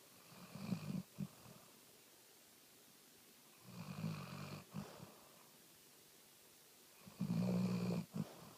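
A hound dog snoring in its sleep: three snores about three and a half seconds apart, each lasting about a second, the last the loudest.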